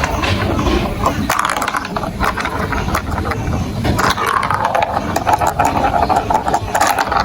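Marbles rolling and clattering along a plastic building-block marble run: a steady rolling rumble with many small clicks as they hit the track pieces.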